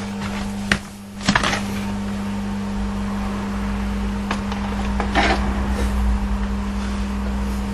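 A few sharp metal knocks and clinks of hands and tools working on the car's mounting, over a steady electric hum.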